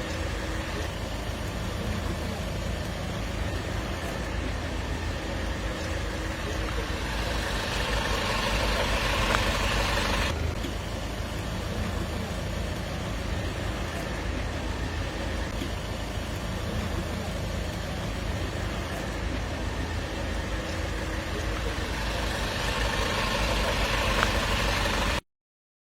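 Steady road-traffic noise with a low rumble, swelling louder twice, then cutting off suddenly near the end.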